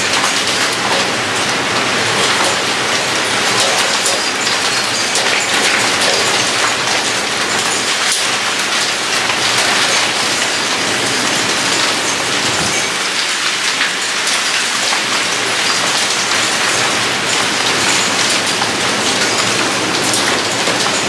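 Heavy rain pouring down steadily in a thunderstorm, loud and even, with many small ticks of drops striking nearby surfaces.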